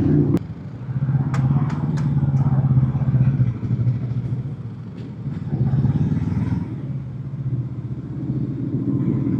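Motorcycle engine running at low revs, its note swelling and easing off a few times. A few sharp clicks come in the first two seconds.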